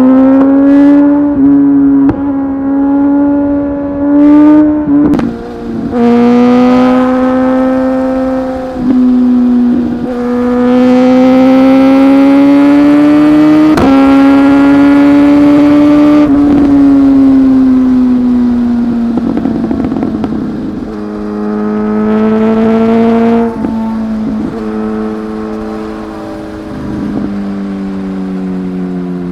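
Inline-four superbike engine pulling hard at high revs, its note climbing and breaking at several quick gear changes, then falling slowly as the bike eases off in the last third.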